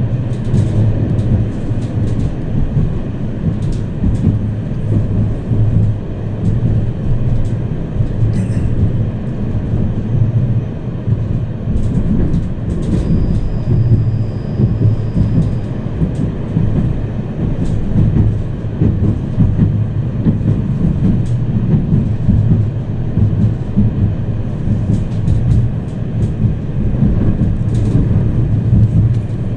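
Tram running along the line, heard from inside the passenger car: a steady low rumble of wheels and motors on the rails, with scattered clicks and knocks. A faint high whine comes in briefly about halfway.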